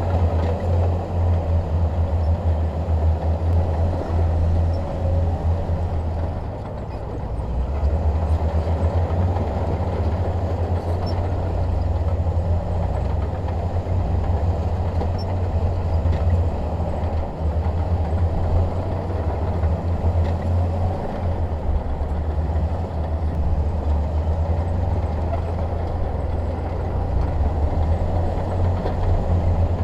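Shantui DH17 bulldozer's diesel engine running steadily under work, a deep continuous drone that eases off briefly about a quarter of the way through before picking up again.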